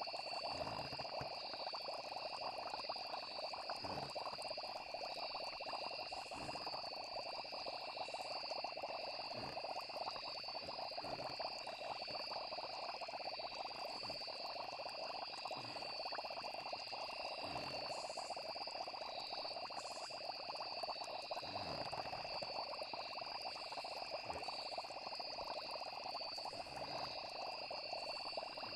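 Night chorus of frogs and crickets: a steady, dense frog chorus under two unbroken high insect trills, with a short low sound every couple of seconds.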